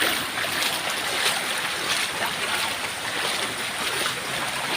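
Someone wading through knee-deep floodwater: water sloshing and splashing around the legs at irregular steps over a steady rush of flowing water.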